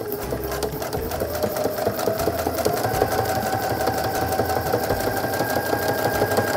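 Brother NQ470L computerized sewing machine starting up and coming up to speed in about the first second, then running steadily with rapid needle strokes. It is sewing free-motion quilting, with the feed dogs lowered and the fabric moved by hand.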